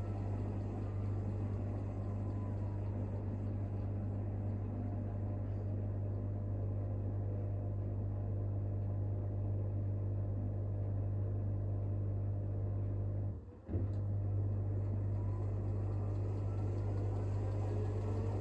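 Hoover H-WASH 500 washing machine running mid-cycle on a cotton 60 programme: a steady low mains-like hum that cuts out for a moment about 13 seconds in, with a faint motor whine rising near the end.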